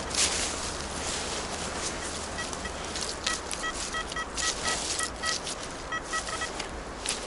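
Metal detector sounding short repeated target beeps in quick clusters as the coil is swept back and forth, over rustling.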